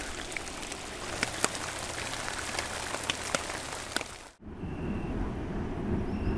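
Heavy rain falling on a pond's surface: a dense hiss with many single drops plinking. About four seconds in it cuts to a low rumbling noise, with a short high note that repeats every second and a half or so.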